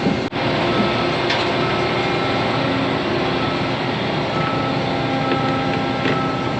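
Heavy farm vehicle engine running steadily, with one brief dropout about a third of a second in.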